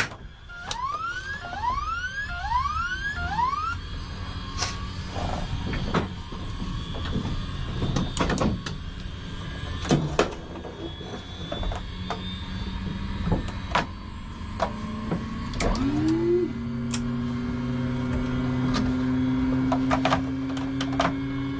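Cockpit switches clicking during a UH-1 Huey helicopter's engine start. Four short rising chirps sound in the first few seconds. About two-thirds of the way through, the turbine starter engages with a quickly rising whine that settles into a steady, slowly climbing whine as the engine spools up.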